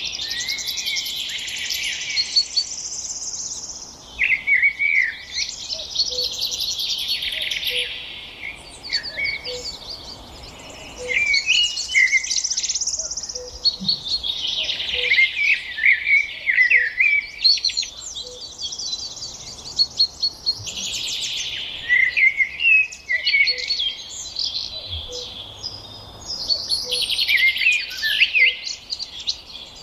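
A flock of small songbirds chirping and twittering, many calls overlapping, with rapid trilled bursts that swell and ease off every few seconds.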